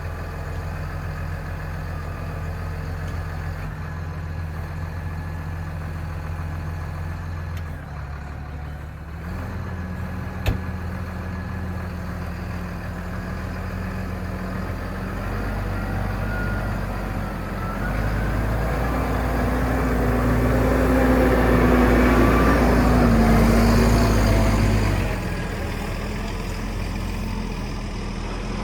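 A heavy farm vehicle's engine running steadily, its pitch stepping up and down a few times as the revs change. It works harder and louder for several seconds about two-thirds of the way in, then drops back. A single sharp click sounds about ten seconds in.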